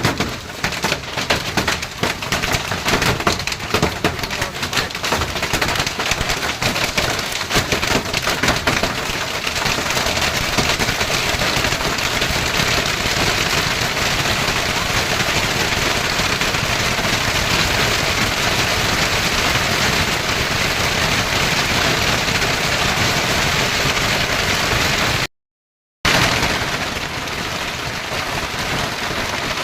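Hailstones pelting hard surfaces in a hailstorm. At first they land as many separate sharp cracks, then thicken into a steady, dense roar of hail and rain. The sound cuts out for a moment near the end.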